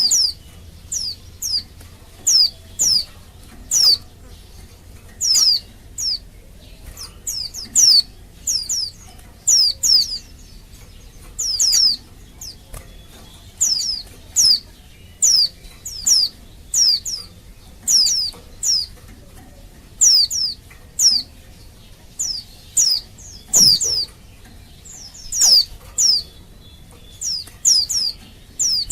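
Female white-eye (pleci) calling: short, high, downward-sliding notes, often in quick pairs or triplets, repeated about every second. It is the excited call of a female in breeding condition calling for males. One soft knock about two-thirds of the way through.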